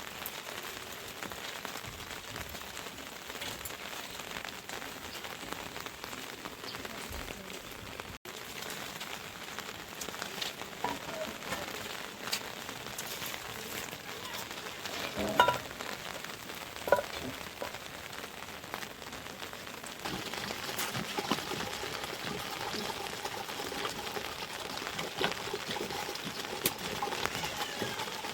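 Heavy rain falling, a steady patter of many drops on surfaces, with a couple of sharper knocks about halfway through. It gets a little louder about two-thirds of the way in.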